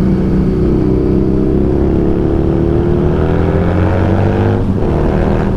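Harley-Davidson Street Rod 750's V-twin engine pulling under acceleration, its pitch rising slowly for about four seconds with a brief drop near the end, over a steady rush of wind noise.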